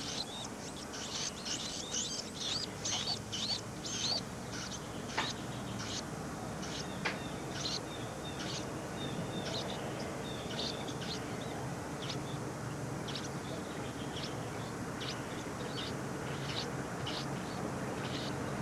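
Birds chirping: quick, high chirps, many in quick succession over the first few seconds, then fewer and more spaced out, over a steady background hiss.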